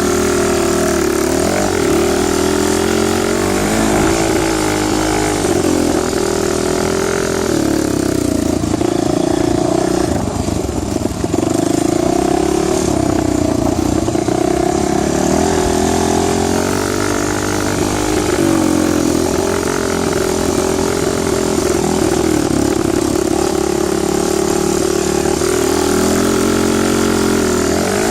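Dirt bike engine running under way, its revs rising and falling with the throttle, with a brief easing-off about ten seconds in.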